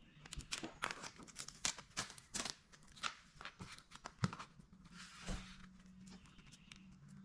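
Vinyl decal and its transfer tape or backing paper crinkling and crackling as they are handled during installation, a run of short, sharp crackles.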